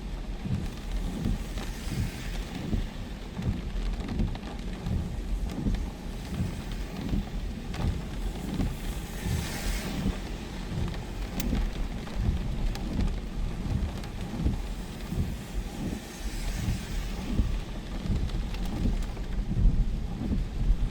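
Heavy rain hissing steadily over a low, irregular rumble; the rain swells louder about two seconds in, near the middle and again near the end.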